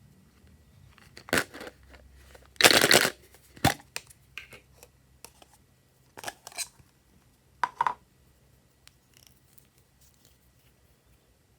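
Slime being handled, heard as scattered sticky clicks and short crackling bursts. The loudest burst lasts about half a second, about three seconds in, and the sounds thin out after about eight seconds.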